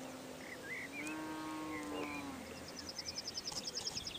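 Birds chirping, with a fast high trill over the last second and a half, over a faint steady hum that rises a little in pitch about a second in.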